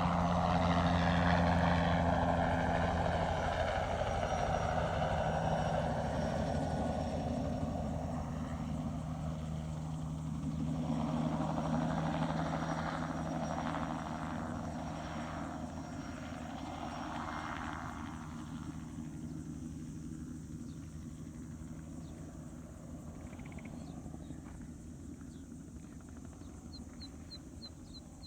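Crop-spraying helicopter flying past, its rotor and engine loud at first, swelling again about ten seconds in, then fading away into the distance. A small bird chirps a few times near the end.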